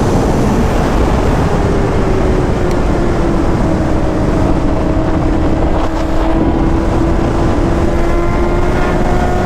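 A sport bike riding at speed, with heavy wind noise over the microphone. The engine's tone eases down about two seconds in, then slowly climbs again.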